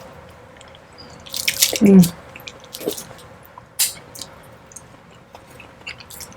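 Close-miked wet chewing of steak: sticky mouth clicks and smacks, scattered through, with a dense run of them and a brief low hum about two seconds in.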